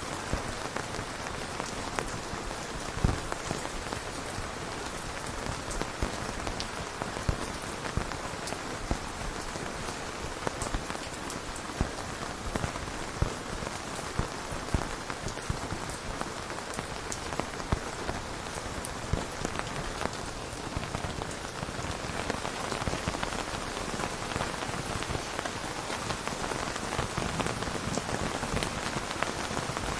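Steady rain falling, with many separate drops landing as sharp ticks over the even hiss; it grows a little heavier after about twenty seconds. No thunder is heard.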